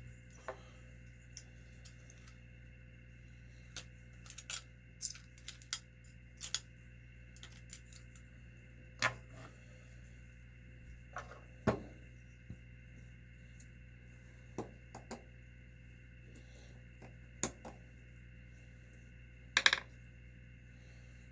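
Small metal parts of an RC nitro engine's clutch assembly clicking and clinking as they are handled and fitted, in scattered irregular taps with a louder clatter near the end.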